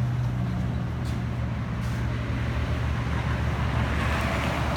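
Steady low engine rumble of motor traffic, growing heavier near the end.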